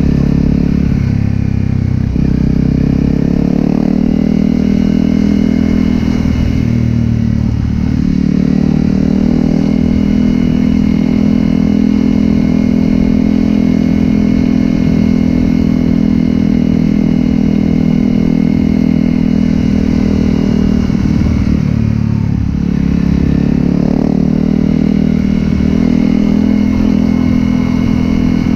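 Honda CRF250L's single-cylinder engine running through a Yoshimura exhaust while the bike is ridden. The engine note shifts up and down a few times in the first several seconds and again about 22 seconds in, and holds steady in between.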